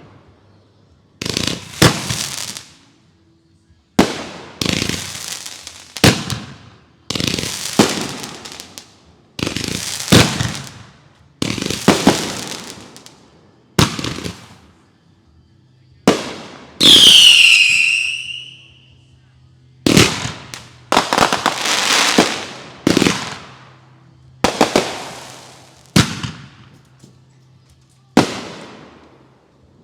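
Consumer fireworks going off in quick succession, a sharp bang every one to two seconds, most trailing off in crackle. About 17 seconds in, a whistling firework gives a loud falling whistle, the loudest sound here.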